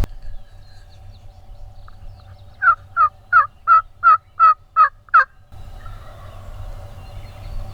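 A run of eight turkey yelps, evenly spaced at about three a second, each short and sharp.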